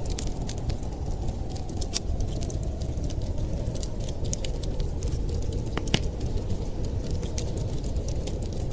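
Wood fire crackling, with sharp pops scattered irregularly and a louder pop about six seconds in, over a steady low rumble.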